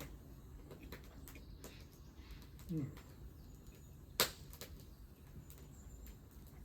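Wood campfire crackling with scattered small pops and one sharp, loud pop about four seconds in. A brief low falling sound comes just before three seconds.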